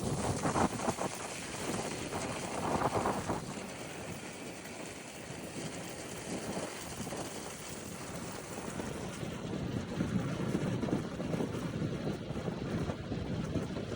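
Wind buffeting the microphone over the low rumble of a motorcycle riding along, gusting hardest in the first few seconds.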